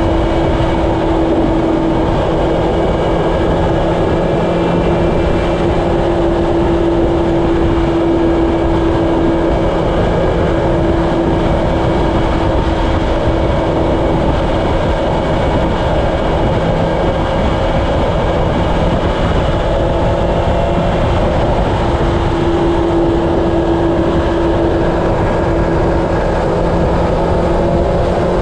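Honda CB750 inline-four engine running steadily at highway cruising speed under heavy wind rush on the microphone. The engine pitch climbs a little near the end as the bike speeds up.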